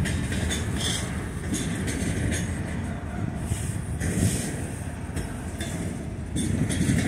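Freight train of container-loaded flat cars rolling past: a steady low rumble of steel wheels on rail, with irregular sharp clicks and knocks from wheels and couplers.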